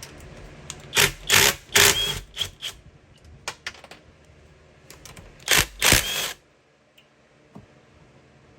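Wrench work on the head bolts of a two-stroke jet ski engine: two bursts of loud, sharp metal clicking and clanking, one about a second in and another around five and a half seconds in, as bolts are broken loose.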